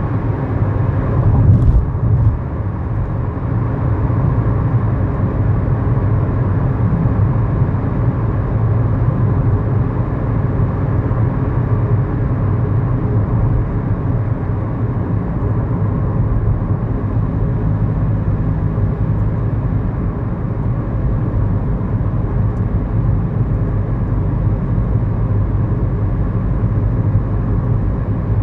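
Inside the cabin of a 2011 Kia Morning while it is driven: its 999 cc four-cylinder SOHC engine running steadily under road and tyre noise, with a brief louder noise about two seconds in.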